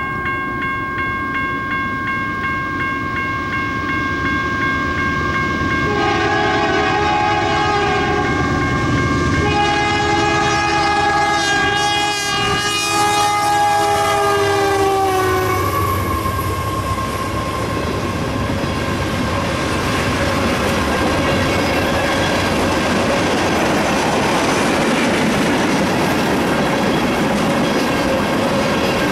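Canadian Pacific GE AC44CWM locomotives passing a grade crossing, sounding the horn in two long chord blasts. The second blast drops in pitch as the engines go by, over the crossing signal's steady electronic bell. From the middle on, the rumble and wheel clatter of a string of tank cars rolling past take over.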